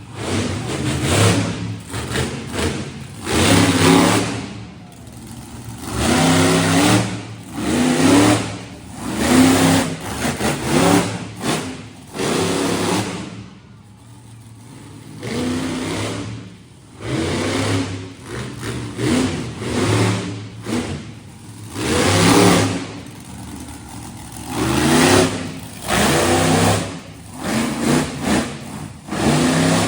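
A large engine revs hard again and again, each burst rising in pitch, with a quieter stretch near the middle.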